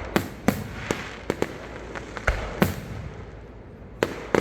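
Fireworks show: a rapid string of loud aerial shell bursts, sharp bangs every half second or so with rumbling echoes and crackle between them, easing for a moment near the middle before more bangs.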